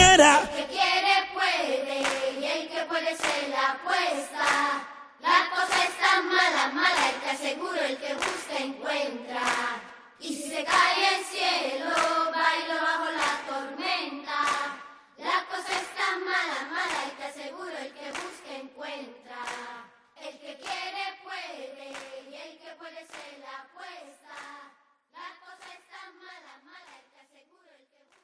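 A group of voices singing together in phrases, with hand clapping, without instruments; it grows quieter and fades out near the end.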